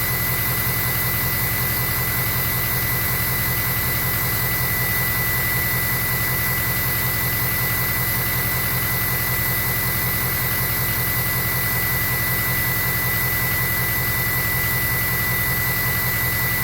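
2003 Ford 6.0 Powerstroke V8 turbo-diesel, with a Turbo Time 64mm Velocity Port turbo, idling steadily while warming up. A low exhaust drone runs under a steady high whistle.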